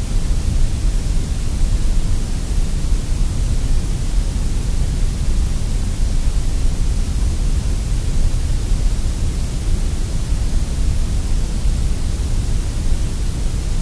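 Sandblasting gun firing in a blast cabinet, a steady hiss of compressed air and grit, stripping rust off the pressed-steel body of a 1960s Tonka Hi-Way Patrol Car toy.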